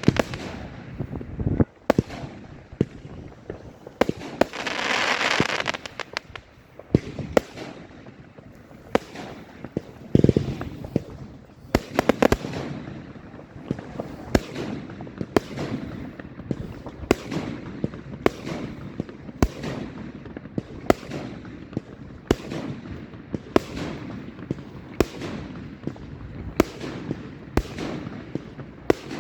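Fireworks going off: scattered sharp bangs and a couple of longer hissing bursts, then from about halfway a steady run of evenly spaced bangs, a little more than one a second.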